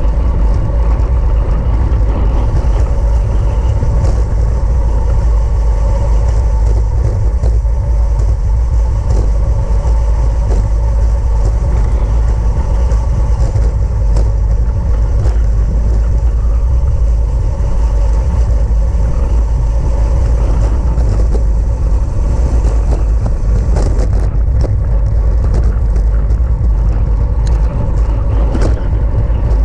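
Steady, loud wind rush on the microphone of a bicycle racing at speed, with a faint steady hum and scattered light clicks underneath.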